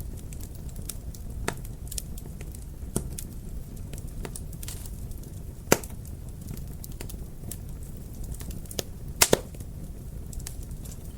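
Wood fire burning in a fireplace: a steady low rumble of flames with irregular crackles and pops, the sharpest pop about six seconds in and a quick cluster of pops a few seconds later.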